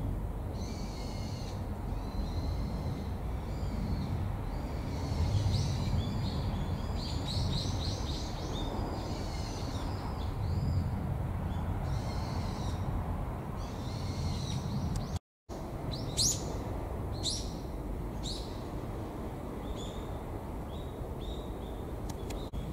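Small songbirds chirping and trilling in short, repeated calls over a steady low rumble. The sound drops out briefly about two-thirds of the way through, and a run of sharper, high chirps follows.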